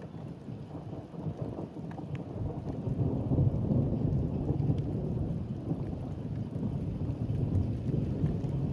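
Thunderstorm: a long low rumble of thunder over steady rain, swelling about three seconds in, with a few faint ticks of raindrops.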